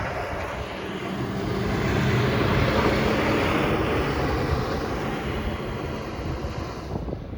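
Strong blizzard wind giving a steady rushing roar, with a faint low hum underneath. It dips sharply near the end.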